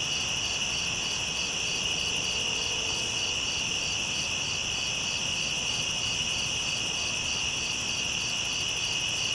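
Nighttime chorus of crickets and other insects: steady high trilling in several pitches, one of them pulsing a few times a second.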